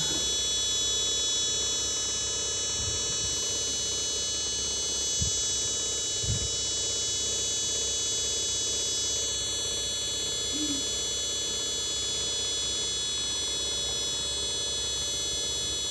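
Chinese CRT TV's faulty switch-mode power supply giving a steady high-pitched whine, several fixed tones at once. The squeal goes with its fault: the B+ supply comes out at only about 7 V instead of its normal level.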